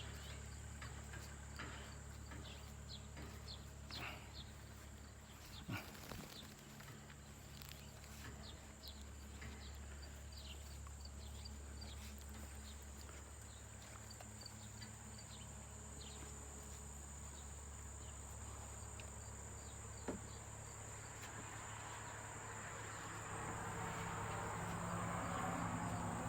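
Crickets trilling steadily at a high pitch, with many short, scattered chirps over them and a couple of brief knocks.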